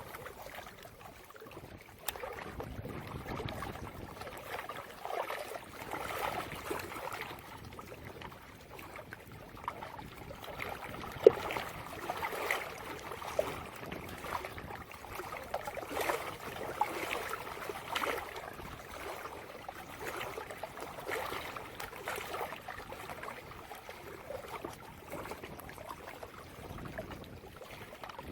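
Water lapping and trickling at the bank, uneven and without a steady rhythm, with one sharp click about eleven seconds in.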